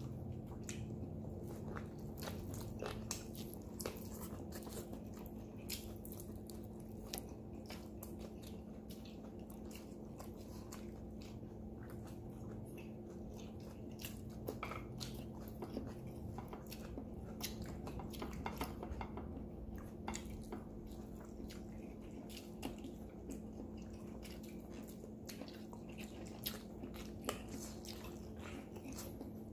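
Close-up chewing and lip-smacking of a person eating roast chicken by hand, with many small wet clicks from the mouth, over a steady low hum.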